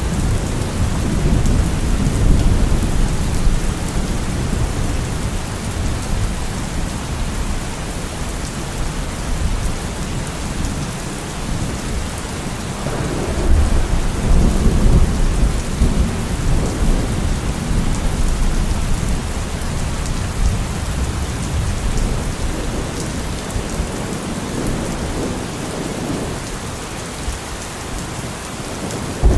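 Steady heavy rain with rolling thunder rumbling underneath, swelling loudest about halfway through.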